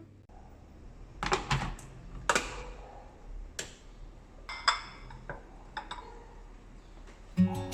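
A series of sharp clinks and knocks, some ringing briefly, like crockery or utensils being handled. Acoustic guitar music starts near the end.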